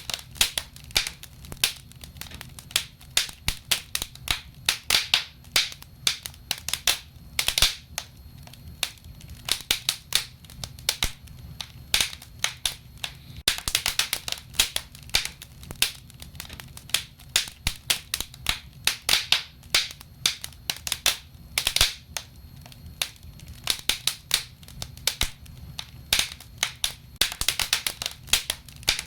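Wood fire burning in a fireplace: a steady stream of irregular crackles and sharp pops over a low rumble, with denser flurries of crackling now and then.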